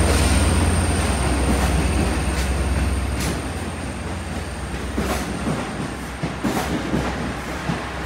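Long Island Rail Road passenger train rolling past on the track: a low rumble that fades after about three seconds, then scattered sharp clicks of wheels crossing rail joints. A thin, steady high tone runs until about six seconds in.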